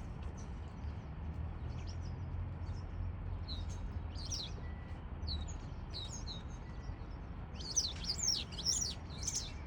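A flock of white wagtails calling at their roost: short high 'chupi' chirps, scattered at first, then many overlapping in the last couple of seconds, over a steady low rumble.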